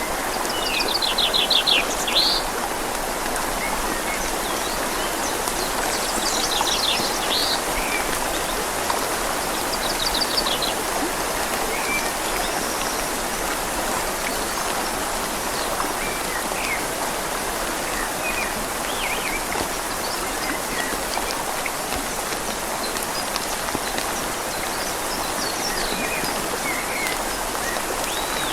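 Steady rush of a flowing river and rain falling on leaves. Birds call over it: quick runs of repeated high notes about a second in and again around six and ten seconds, then scattered short chirps.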